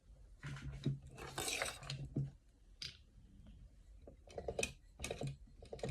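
Irregular clicks and short rustling bursts from sewing a name tag onto a dog collar, some with a brief low hum under them.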